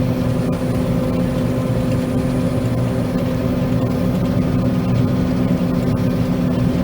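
John Deere 9500 combine running steadily while cutting soybeans, heard from inside the cab: an even machine drone with a constant hum.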